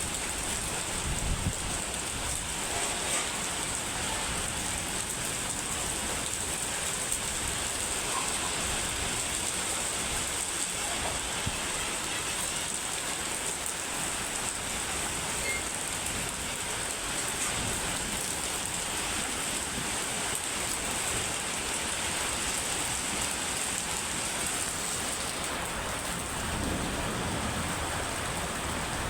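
Heavy rain falling in a steady downpour, a continuous even hiss of water on surfaces.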